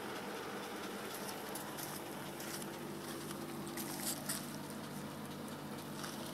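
Polaris RZR S twin-cylinder engine idling steadily through its Looney Tuned dual exhaust, with scattered light clicks on top.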